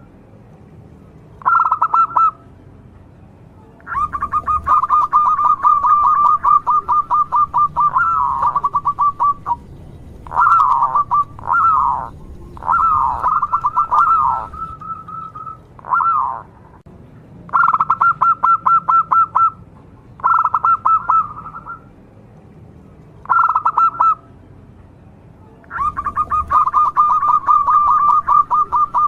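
Zebra dove (perkutut) cooing in repeated bouts of rapid, evenly pulsed notes at much the same pitch. Some bouts are short and one runs about five seconds, with pauses between. A few bouts in the middle break into slurred notes that fall in pitch.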